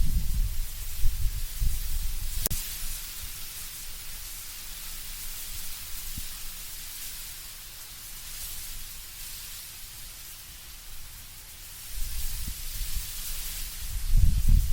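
Wind moving through autumn trees, leaves rustling in a steady hiss, with a low gusty rumble that eases off after the first couple of seconds and swells again near the end. A single sharp click about two and a half seconds in.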